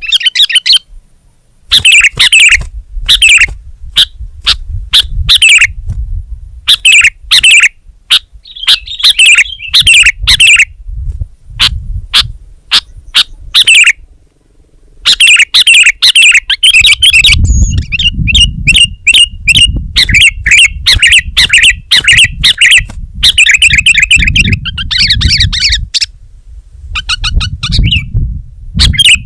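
Sooty-headed bulbul singing loudly and almost without pause: short chirpy phrases repeated in quick succession, broken by brief gaps about a second in and about halfway through, over a low rumble.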